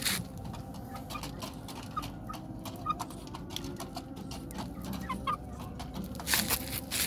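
Chickens clucking softly in short, scattered notes, among light scratching clicks. A louder scratchy burst comes near the end.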